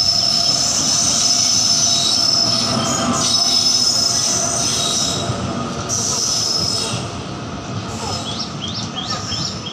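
Indian Railways passenger train passing at speed, its coaches' steel wheels squealing on the rails in a steady high whine over the running rumble. The sound eases after about seven seconds, and a run of short rising chirps comes near the end.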